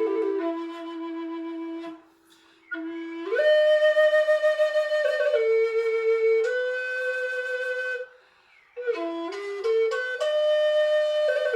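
Solo flute playing a slow melody of long held notes that step up and down, with two short pauses between phrases.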